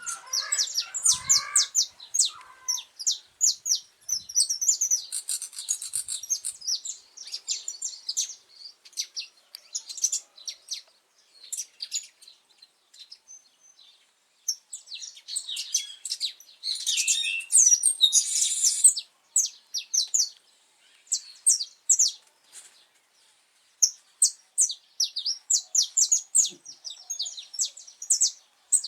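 Saffron finch singing: long phrases of quick, high chips and trills, broken by short pauses between phrases.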